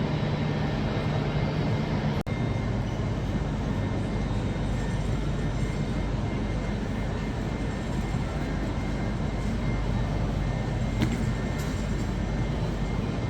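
Railway station ambience: a steady low rumble of trains and machinery with a constant hum. There is a brief dropout about two seconds in, after which the low hum shifts.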